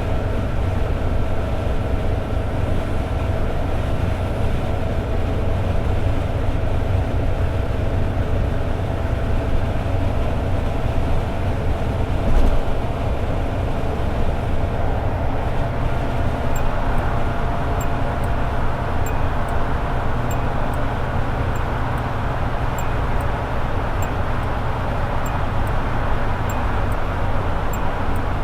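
Toyota AE86 Sprinter Trueno's four-cylinder engine and road noise droning steadily at highway cruising speed, with a steady tone running through it. There is a brief thump about twelve seconds in, and from a little past halfway faint, sharp ticks come about once or twice a second.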